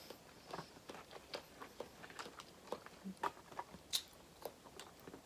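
Soft chewing of seafood: a run of short, irregular mouth clicks and light crunches, with a sharper click about four seconds in.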